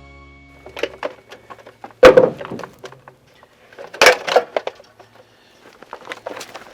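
Handling noise of solid objects being moved: irregular knocks and clatters, with two loud thumps about two seconds apart.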